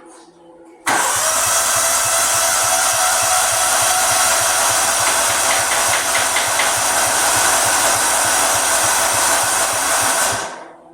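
Old riding lawnmower engine cranked by its starter for about nine and a half seconds with a steady rhythmic chugging, not catching. It starts and stops abruptly. The owners suspect a clogged gas filter starving it of fuel.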